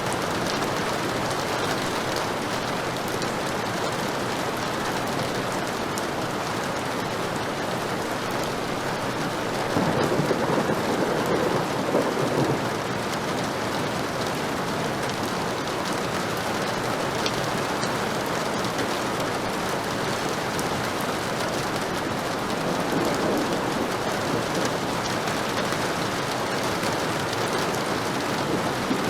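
Heavy rain falling steadily, with a rumble of thunder swelling up about ten seconds in and lasting a couple of seconds.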